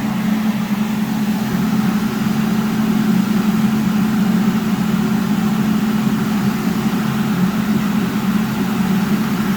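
Electric fan running steadily, a constant low hum with a rush of air over it: the more powerful fan fitted to draw smoke from a smoking fireplace.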